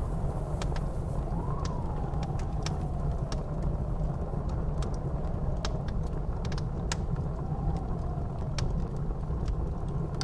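Blizzard wind howling: a steady low rumble with a whistling tone that rises and falls twice. Sharp crackles and pops from a wood fire burning in a fireplace are scattered throughout.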